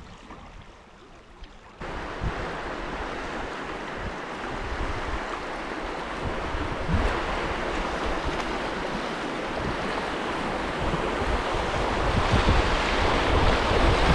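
River rapids rushing around a canoe as it runs through whitewater: a steady rush of water that starts abruptly about two seconds in and grows louder toward the end.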